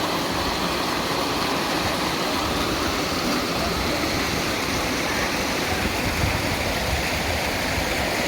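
Coban Rondo waterfall: water falling and splashing steadily into its pool, a constant rushing noise with no breaks.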